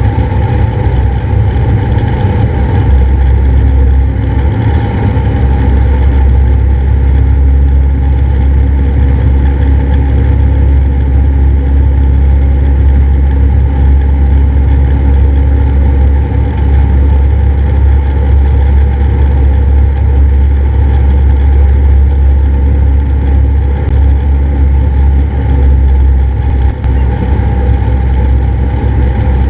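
Cessna 172's piston engine and propeller droning steadily and loudly, with no change in power.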